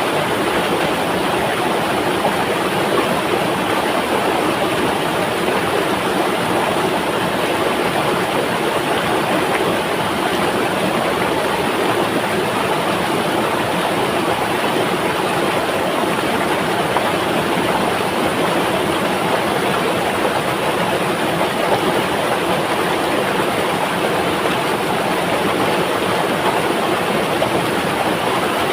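Flowing river water rushing steadily, an even, unbroken wash of sound.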